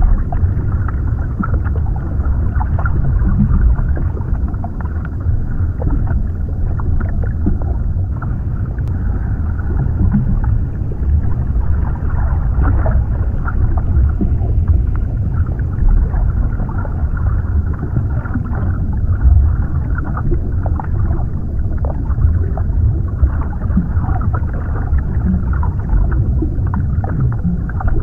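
Underwater ambience: a steady, muffled low rumble with scattered faint clicks and crackles.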